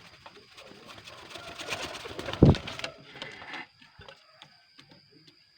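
Domestic pigeons cooing and rustling, with a single loud thump about two and a half seconds in.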